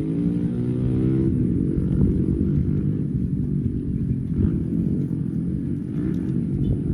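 Cows mooing in long, low calls that overlap, one call trailing off about a second in.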